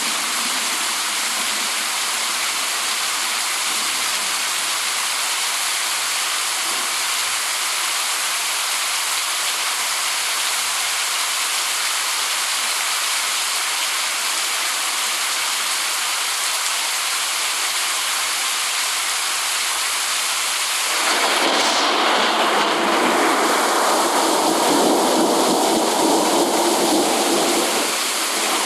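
Steady rain falling in an even hiss, with a louder, deeper swell starting about three-quarters of the way through and lasting several seconds before it eases back.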